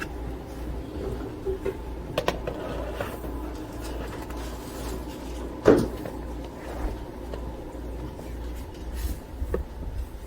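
A few short knocks and clunks, the loudest a sharp knock about six seconds in, over a steady low rumble.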